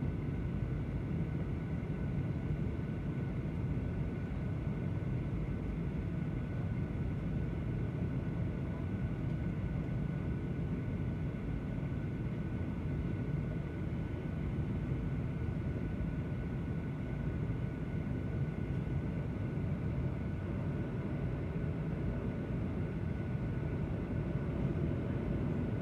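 Passenger aircraft in flight: a steady low rumble of engines and airflow with a faint, even high whine.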